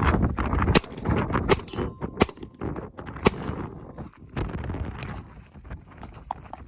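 Wind buffeting the microphone with a steady rumble, broken by about five sharp gunshot cracks spaced roughly a second apart in the first few seconds.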